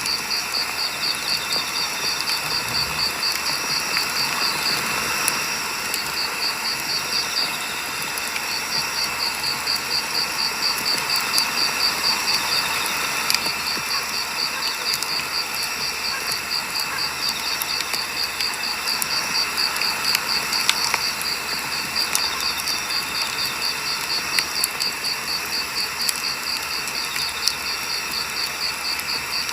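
Firewood burning with scattered crackles and pops, under a cricket's steady pulsing chirp that breaks off briefly twice in the first third.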